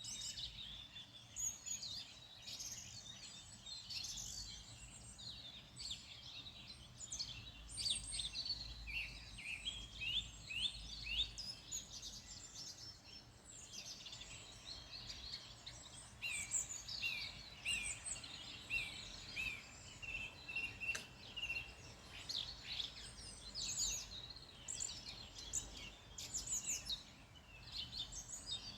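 Several wild birds singing at once, a dense chorus of overlapping chirps, trills and short rising and falling notes, over a faint steady low rumble.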